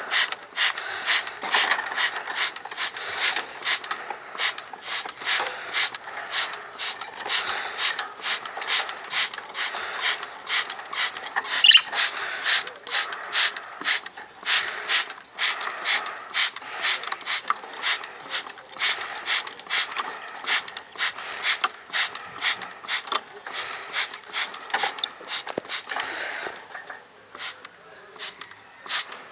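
Hand pump spray bottle squeezed over and over, about two to three sprays a second, misting water onto young pigeons to bathe them. The spraying stops a few seconds before the end.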